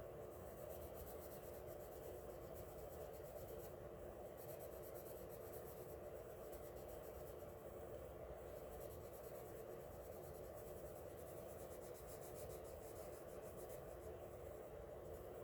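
Coloured pencil scratching faintly on paper in quick back-and-forth shading strokes, with two short pauses, about four and eight seconds in.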